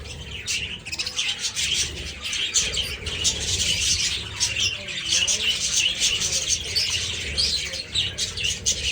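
A flock of budgerigars chirping and chattering all at once: many short, overlapping chirps forming a dense, continuous din.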